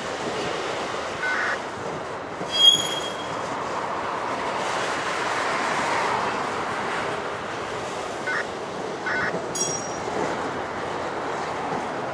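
Freight train of multilevel autorack cars rolling past, a steady rumble of wheels on rail. Short high-pitched wheel squeals come through it, the loudest about two and a half seconds in and several briefer ones in the second half.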